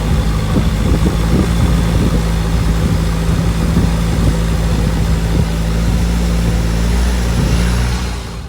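Motorboat engine running steadily with a low, even hum under a broad rushing noise; it drops away near the end.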